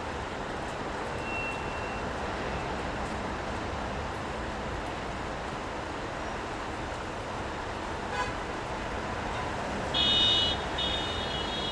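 Steady city street noise of traffic and rain, with a car horn honking about ten seconds in: a short blast, then a longer one that runs on.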